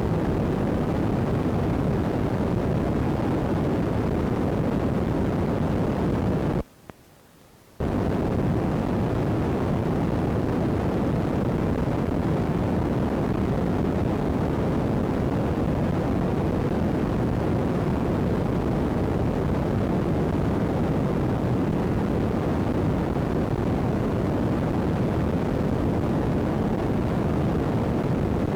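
Steady low rushing noise from an iPod's non-working microphone, with no distinct sounds in it. It cuts out for about a second some seven seconds in, then returns unchanged.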